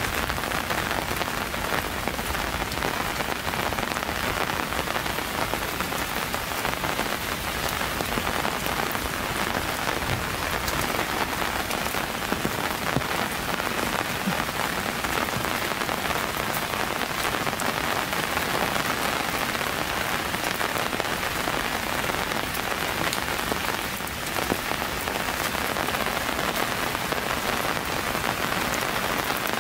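Steady rain falling, an even hiss made of many small drop impacts.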